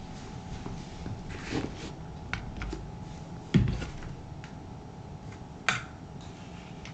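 Shoe-care handling sounds: scattered light clicks and taps of a leather boot and cleaning tools being handled on a work surface, with one heavier thump about three and a half seconds in and a sharp click near six seconds.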